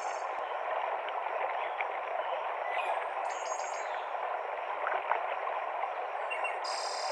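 Mountain stream cascading over rocks, a steady rushing of water. Brief high-pitched bird calls sound twice above it, about three seconds in and near the end.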